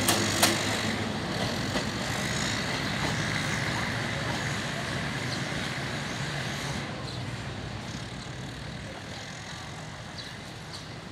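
Diesel railcar train pulling away after passing by. A couple of sharp clacks of the wheels come right at the start, then its running rumble fades steadily as it moves off.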